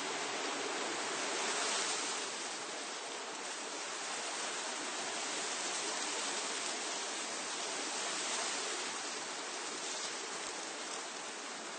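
Wind blowing through tree foliage, leaves rustling in a steady rushing hiss that swells in gusts, strongest about two seconds in and again a little past the middle.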